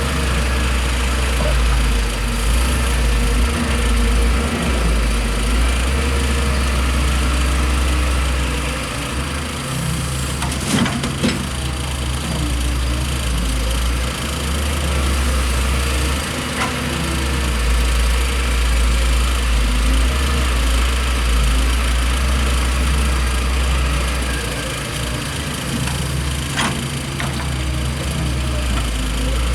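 Heavy diesel construction machinery running steadily with a deep low rumble, with a few brief knocks about a third of the way in and again later.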